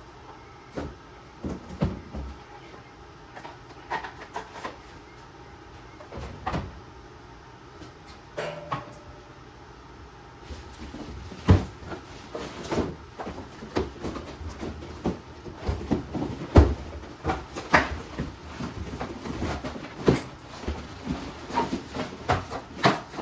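Irregular knocks, clicks and clatter of a plastic electric chainsaw and its packaging being handled, growing busier about halfway through, when a steady background noise also comes in.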